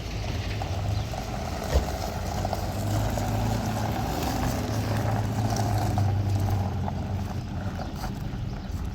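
Car engine running steadily as the car drives, growing louder through the middle and easing off near the end, with a single sharp knock about two seconds in.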